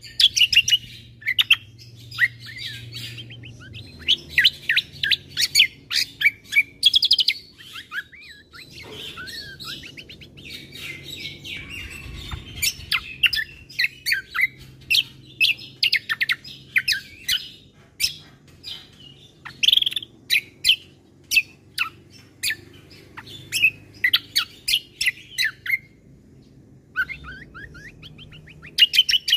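Kecial kombo (cucak kombo) songbird singing a fast, varied song of sharp chirps and trills in bursts, with short pauses between phrases.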